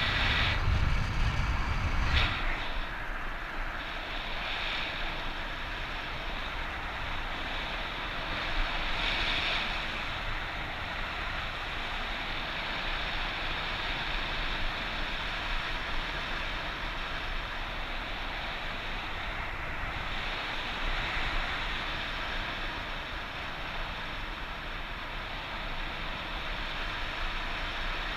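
Wind rushing over the microphone of a paraglider in flight: a steady hiss, with heavier low buffeting for the first two seconds or so.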